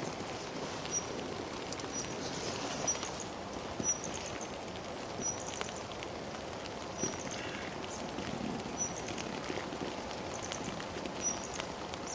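Steady rain falling in the forest with scattered drips ticking, while a bird repeats a short high call about every second or two.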